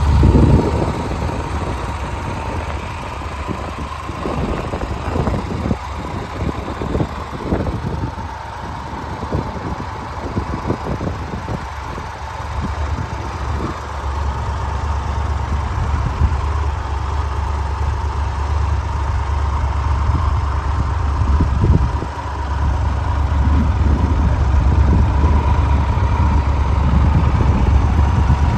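2023 Triumph Tiger 1200's inline three-cylinder engine idling steadily, a little louder in the last few seconds.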